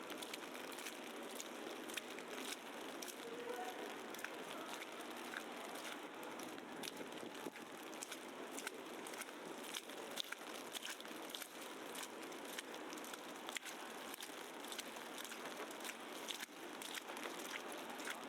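Snowy city street at night: a steady hiss with dense, irregular crackling and ticking, typical of heavy wet snow falling and settling.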